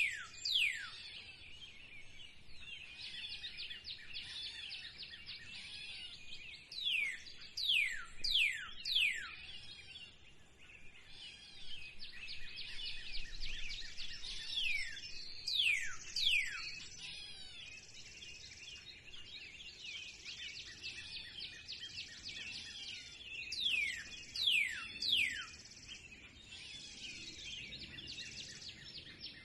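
Spring birdsong: one bird repeats a series of three or four sharp, steeply falling whistles about every seven to nine seconds, over a steady chorus of other birds chirping.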